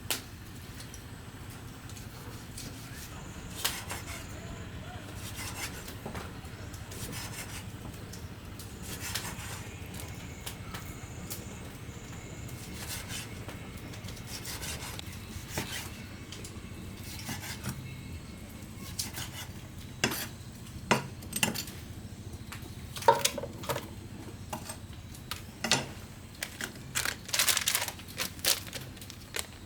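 Clinks and scrapes of dishes, pots and utensils, scattered at first and coming thick and fast in the last few seconds, over a steady low background hum.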